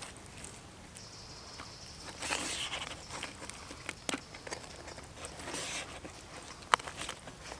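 Scattered rustling and handling noises with several sharp clicks, the loudest a single sharp click near the end.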